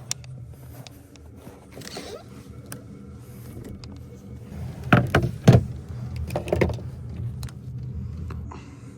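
Diesel air heater running with a steady low hum. A few sharp knocks about five seconds in, and smaller ones a moment later.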